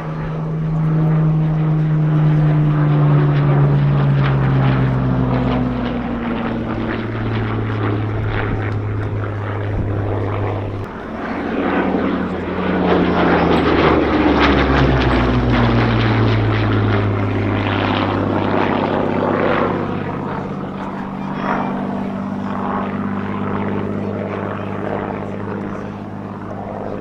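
Rolls-Royce Merlin V12 piston engine of a WWII fighter making low passes, its engine note dropping in pitch as it goes by, then a second pass about halfway through with the note falling again.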